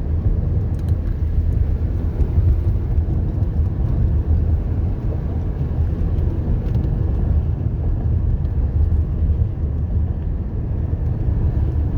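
Car driving up a mountain road, heard from inside the cabin: a steady low rumble of engine and tyres.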